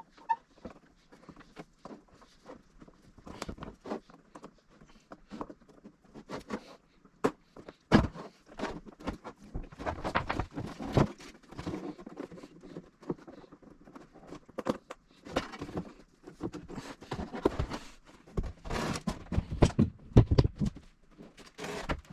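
Hands working plastic car-body parts and connectors: irregular clicks, rustling and knocks, sparse at first and busier from about eight seconds in, with a sharp knock then and a cluster of louder knocks near the end.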